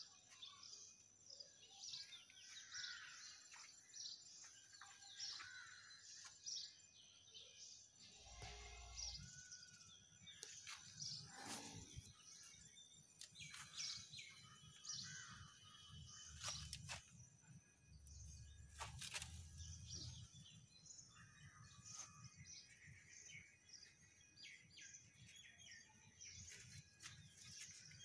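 Faint outdoor ambience with small birds chirping over and over, plus a couple of brief low rumbles about a third and two-thirds of the way through.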